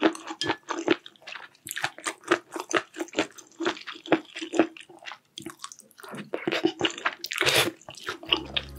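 Close-miked chewing and biting: a quick run of short, wet, crunchy mouth sounds of someone eating. Music comes in near the end.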